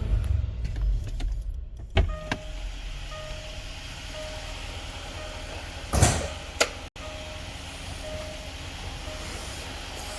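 Car sounds: a low rumble for the first two seconds, then a click, a soft repeating chime, and a loud thump about six seconds in, over a steady low hum.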